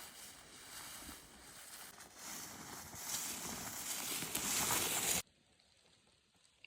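Rustling and crunching of someone walking through brush and undergrowth, growing louder and then cut off abruptly about five seconds in.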